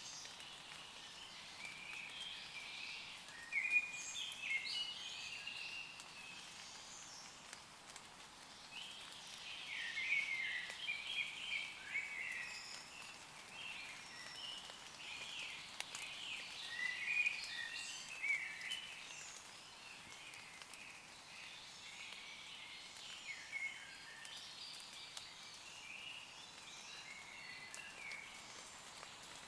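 Several woodland birds singing, short chirping phrases overlapping throughout and busiest in two stretches near the middle, over the light patter of rain on leaves.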